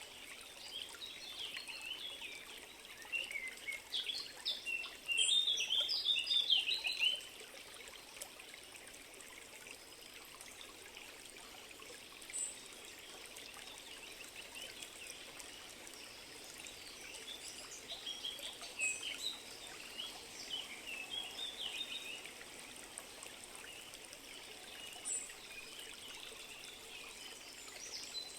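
Birds chirping and singing over a steady background of trickling, flowing water. The bird calls are busiest and loudest about four to seven seconds in, and come again in a cluster around twenty seconds.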